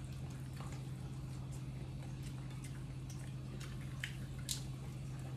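A few faint clicks and smacks of someone eating shrimp, over a steady low electrical hum.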